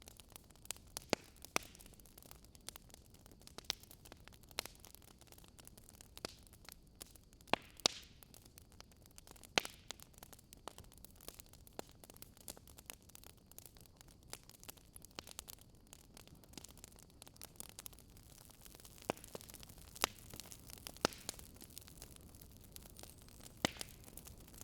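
Wood fire crackling quietly: irregular sharp pops and snaps over a low steady hiss.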